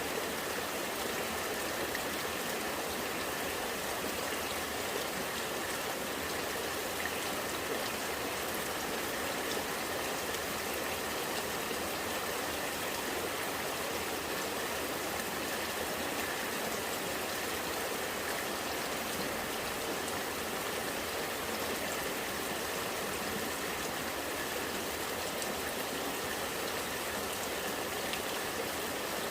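Rainwater flowing and gurgling in a steady, even rush of running water.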